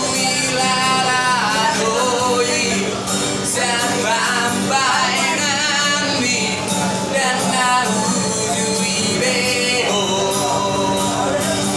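A street busker singing a Batak-language song with a wavering vibrato, over steady instrumental accompaniment.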